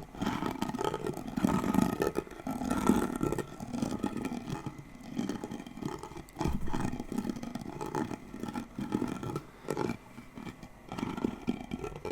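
Close-miked scratching and rubbing on an object, coming in uneven swells with an occasional knock.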